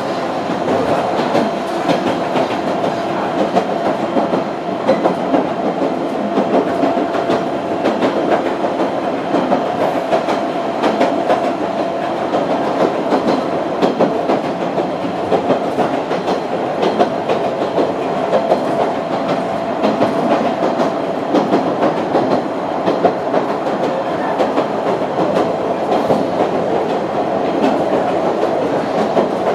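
Running noise inside a Sangi Railway Hokusei Line narrow-gauge passenger car under way: the wheels click steadily over the rail joints, and a steady whine sits over a continuous rumble.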